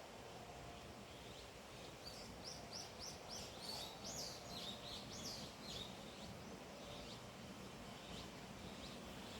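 A songbird singing a quick run of about a dozen high chirping notes, starting about two seconds in and lasting about four seconds, with a few fainter notes near the end, over a steady outdoor hiss.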